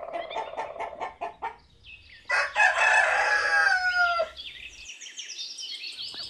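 Rooster clucking, then crowing once: a loud call of about two seconds with a falling end, starting about two seconds in. Faint high chirping follows.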